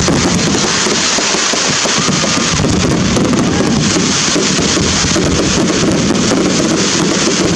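Fireworks crackling densely and without a break over a loud, steady din.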